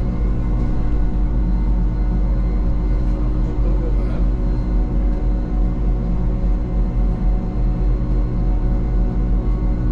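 Electric mountain train running steadily: a constant hum made of several steady tones over a heavy low rumble.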